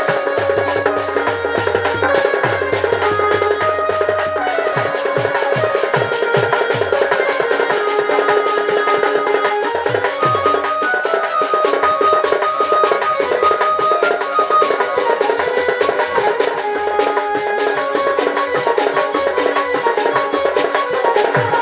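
Sambalpuri folk music playing: fast, dense drumming under a melody of long held notes, with no singing.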